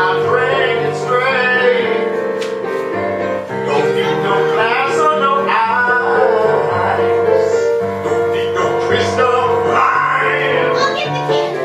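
A musical-theatre song from a stage production: a singing voice over piano and keyboard accompaniment.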